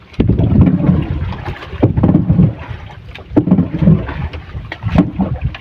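Wind gusts buffeting the microphone on a small paddled boat, as an irregular loud low rumble, with a few sharp knocks.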